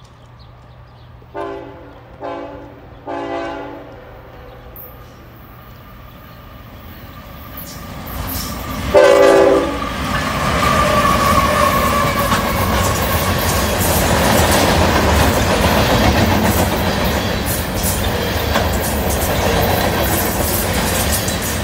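CSX diesel freight locomotive horn sounding three short blasts about a second apart, then a louder blast about nine seconds in as the train arrives. The locomotives and freight cars then pass close by with a steady loud rumble and wheel clatter over the rails.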